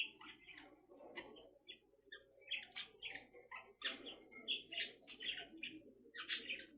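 Bird chirping in quick, short calls, several a second, in runs with brief pauses between them.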